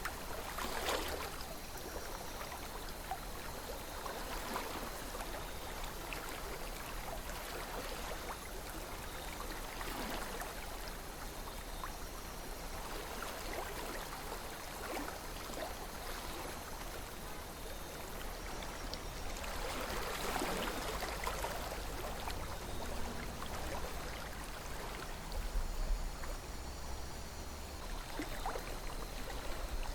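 River water flowing steadily over rocks, with small gurgles and splashes that come and go and swell a little about two-thirds of the way through.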